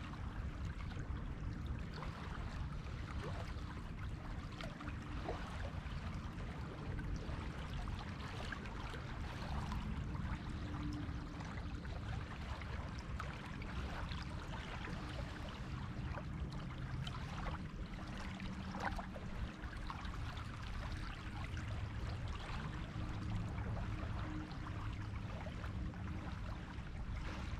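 Sea waves washing on a beach: a continuous wash with a deep rumble underneath and many small crackles of water.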